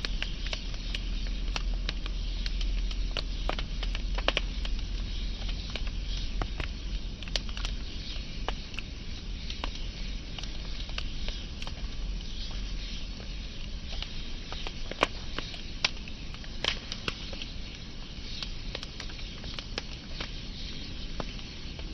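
Wood fire burning, with irregular crackles and a few sharper pops over a steady low rumble of the flames.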